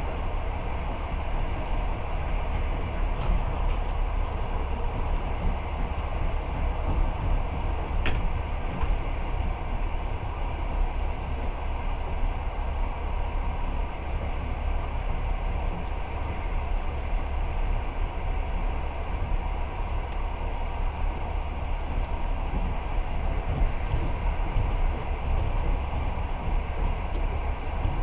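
Passenger train moving, heard from inside the carriage: a steady low rumble of the wheels on the track under an even rushing noise, with a single short click about eight seconds in.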